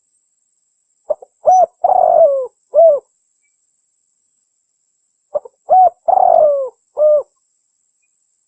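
A dove sold as the 'terkukur merah' calls in cooing phrases, twice, about four seconds apart. Each phrase is a couple of short soft notes, then a coo, then a longer coo that falls in pitch, then a short final coo.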